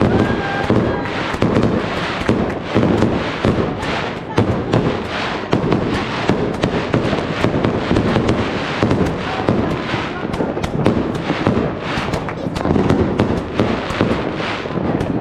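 Fireworks going off in a dense, continuous barrage of sharp bangs and crackles, many a second, with no pause.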